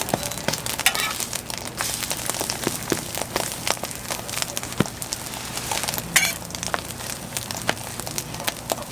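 Food frying on a hot griddle, crackling and sizzling, with many sharp ticks and pops scattered through it.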